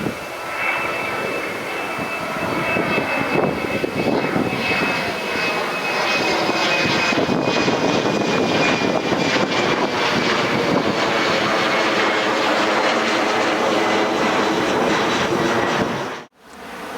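Jet airliner engines passing close: a loud rush with a high fan whine that slowly falls in pitch. The sound cuts off suddenly about a second before the end, leaving wind noise on the microphone.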